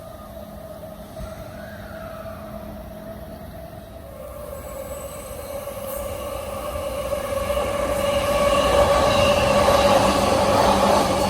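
Electric train approaching and running through a station at speed. There is a faint steady hum at first, then rolling noise grows louder from about four seconds in and is loudest over the last few seconds as it passes.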